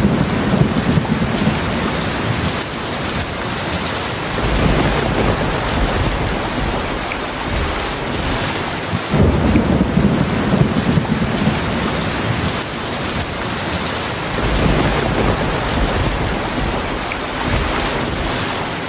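Heavy rain falling steadily, with low rolls of thunder that swell and fade several times; one begins suddenly about halfway through.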